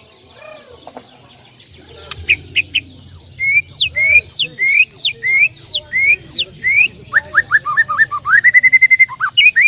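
A songbird singing loudly, starting about two seconds in: a string of clear whistled notes, each sweeping down from high and hooking back up, about two a second. Near the end it breaks into a quick run of short notes and ends on one held, rising note.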